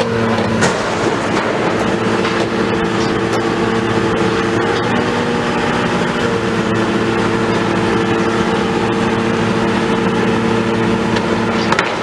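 Heavy diesel engine of demolition machinery running steadily, its pitch shifting slightly a few times, over a haze of clatter with a couple of sharp knocks near the start and the end.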